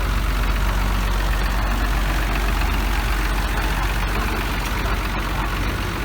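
The engine of a narrow-gauge sugar-railway train running steadily, a loud, deep, even hum with mechanical clatter over it.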